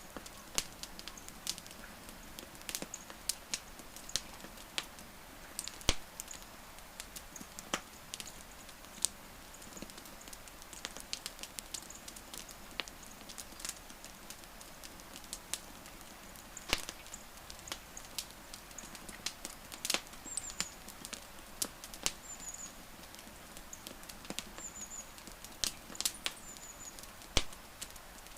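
Burning wood crackling in a campfire: irregular sharp pops and snaps over a soft steady hiss. A few faint, short high chirps come in the second half.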